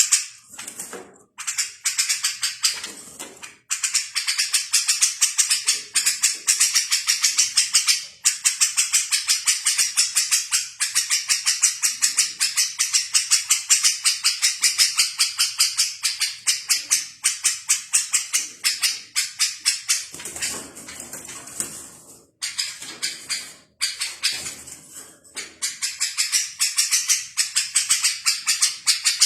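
Small songbird singing in a fast, continuous run of high chirps, several a second, pausing briefly a few times.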